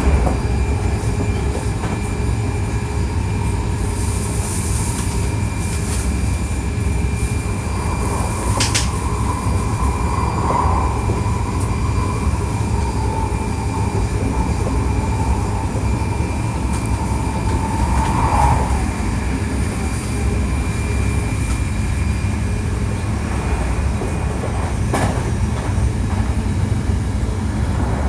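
Hankyu 1300 series electric train running at steady speed, heard from on board: a continuous low rumble of wheels on rail. A thin high tone holds for about ten seconds in the middle, and two sharp clicks cut through, one before and one after it.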